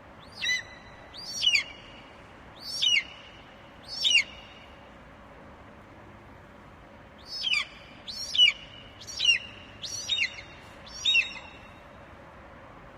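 Eagle calling in two runs of high, sharp chirps, each dropping in pitch: four about a second apart, then after a gap of about three seconds, about six more in quicker succession.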